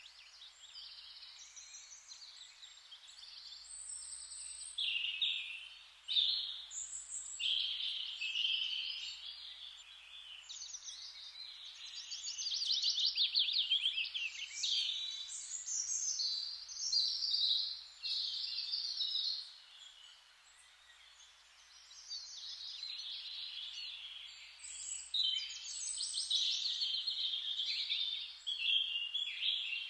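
Several songbirds singing together: overlapping chirps, rapid trills and short whistled phrases over a faint steady hiss, with a brief lull near the middle.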